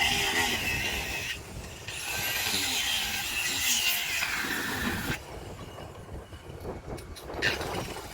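Power saw cutting wood, its pitch wavering and sliding under load, with a short break about a second and a half in. The saw stops about five seconds in, leaving a few light knocks.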